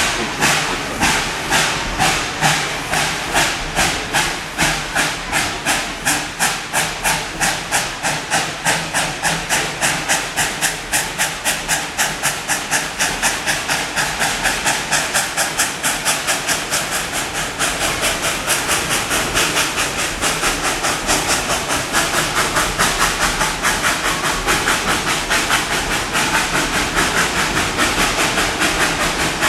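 Steam locomotive exhaust chuffing as the train pulls away and gathers speed, the chuffs quickening steadily from about one a second to several a second.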